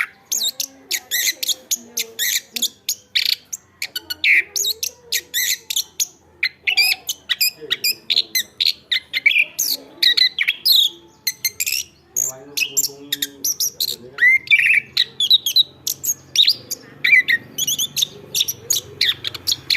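Chestnut-capped thrush singing without a break: a fast, dense run of short, high chirping and whistled notes, several a second.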